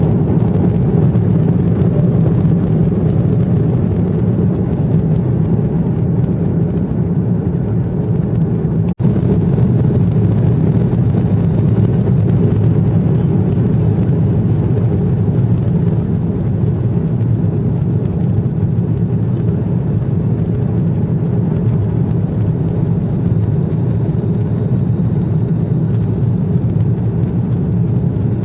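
Steady cabin noise of a jet airliner, engines and airflow heard from inside the passenger cabin as a deep, even rumble. The sound drops out briefly about nine seconds in, and a faint high whine comes in near the end.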